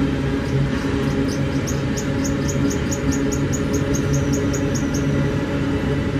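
Empty iron-ore wagons rolling past on the rails: a steady rumble of wheels and running gear with a low hum. From about a second in to about five seconds, a run of short high chirps repeats about four times a second over it.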